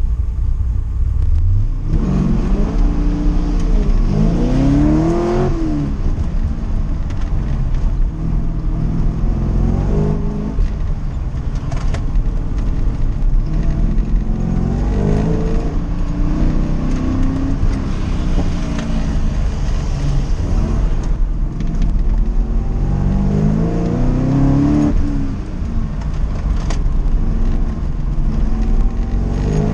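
1979 Chevrolet Corvette's V8 heard from inside the cabin on a hillclimb run: idling for about two seconds, then launching hard and revving up and down, its note rising and falling again and again as the car accelerates and slows for corners.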